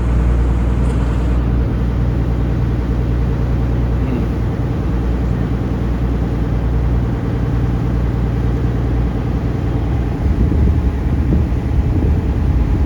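Taxi boat's engine running steadily, a loud low drone, slightly louder about ten seconds in.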